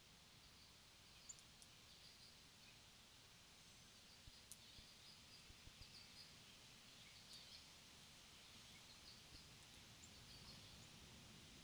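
Near silence: faint outdoor ambience with scattered soft, high bird chirps and a few small clicks.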